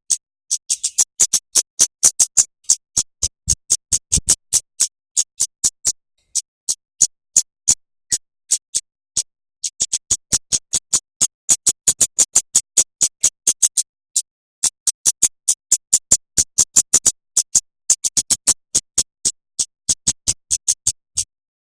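Songbird tutor recording: a bird's sharp, high chip notes repeated in fast runs of about four a second, broken by short pauses.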